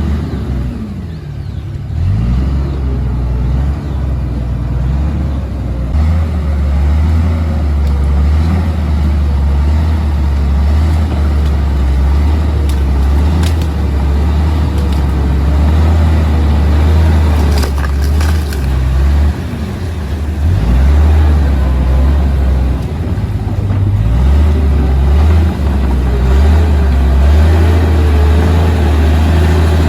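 Komatsu D58P bulldozer's diesel engine running hard, its pitch rising and falling as the load changes, with a couple of brief dips.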